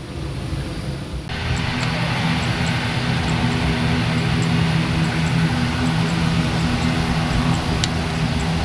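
Jet airliner engines heard close by, swelling over the first second and then jumping to a steady loud drone with a low, even hum underneath.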